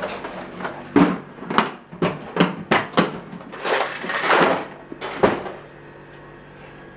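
A quick run of knocks and clatters, about a dozen over four seconds, as of hard objects being handled and set down, ending with one loud knock, then dying away to a quieter steady background.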